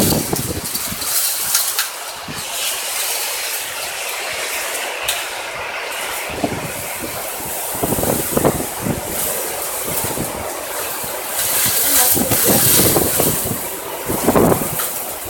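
Strong typhoon wind blowing along a street funnelled between walls: a continuous rushing hiss that swells into a louder gust about twelve seconds in, with irregular low rumbling buffets.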